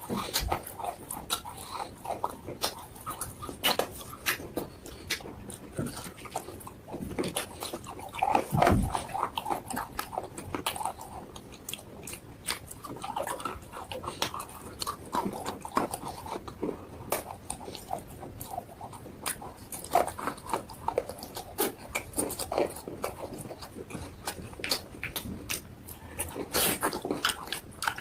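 Close-miked crunching and chewing of hard, chalky sticks of eating chalk or slate pencil: irregular crisp crunches and mouth sounds, several a second.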